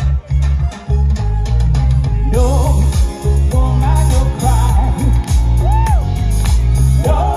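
Band music with a heavy bass line and a steady drum beat; singing comes in about two seconds in.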